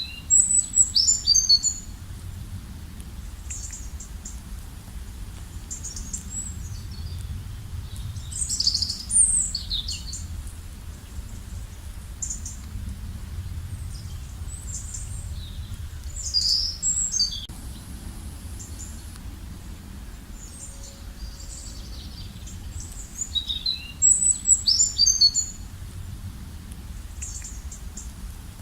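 A songbird singing short, bright, high-pitched phrases about every eight seconds, four times, with fainter chirps of other birds in between. A steady low rumble runs underneath.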